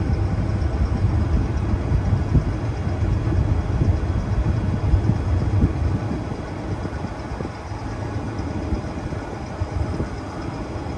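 Combine harvester engine running steadily with a deep hum, easing off a little in the second half.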